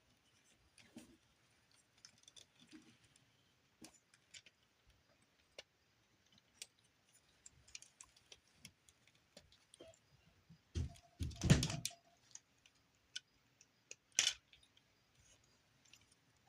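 Plastic parts of a Transformers Optimus Prime action figure clicking and ticking as it is handled and transformed. There is a louder clatter of knocks about two-thirds of the way through, then a sharp click a few seconds later.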